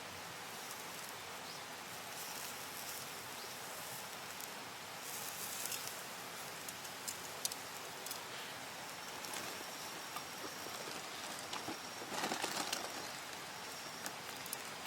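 Steady rushing of a small mountain stream, with scattered sharp clicks and a thin, high steady tone in the second half.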